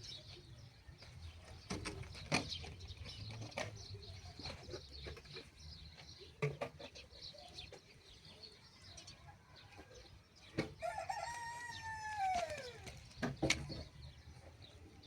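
A rooster crows once, a call of about two seconds that rises and then falls, about ten and a half seconds in. Scattered sharp knocks and clatter sound around it.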